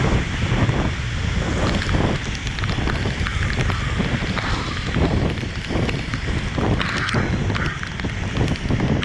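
Steady rain with gusts of wind buffeting the microphone, which gives a heavy low rumble, and scattered drop clicks over it.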